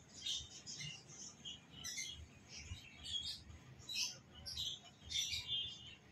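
Small birds chirping and twittering in quick, irregular bursts, several a second.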